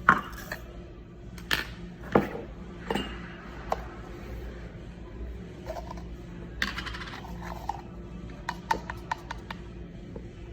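Scattered clicks and clinks of small hard objects being handled, with a short rustle about two-thirds of the way through and a quick run of clicks near the end, over a low steady hum.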